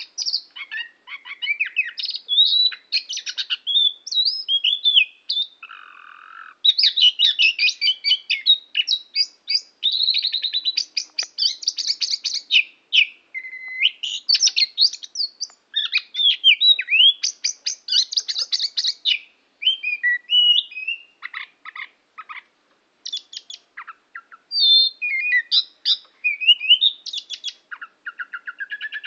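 A songbird known locally in Java as the koci singing its chattering song: a long, varied string of whistled notes, rising and falling slurs and quick rattling trills, with only brief pauses between phrases.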